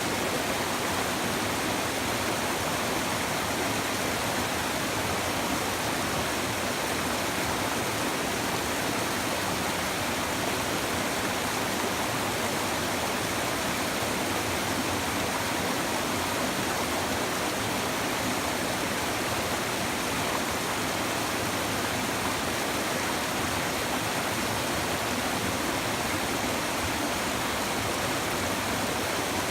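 A shallow river babbling and rushing over stones, a steady, even flow of water.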